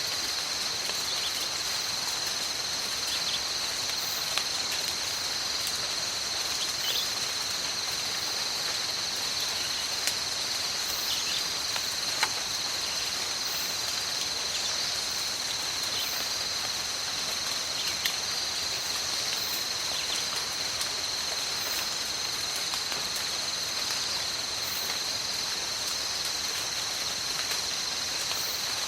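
Steady rain falling in a tropical forest, with an unbroken high drone of insects holding two steady pitches over it. Scattered drips and light taps stand out now and then.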